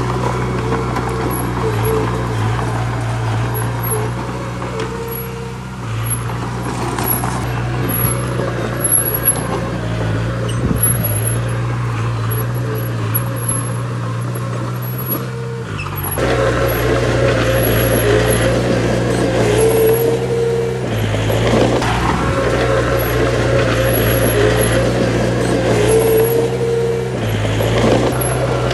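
Heavy diesel earthmoving machinery running, its engine revs stepping up and down every few seconds as it works under load, and louder from a little past halfway.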